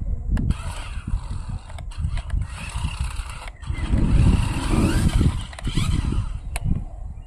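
RC monster trucks driving. Their motors whine and rise and fall in pitch over a steady rumble of wheels and gears, with a few sharp clicks.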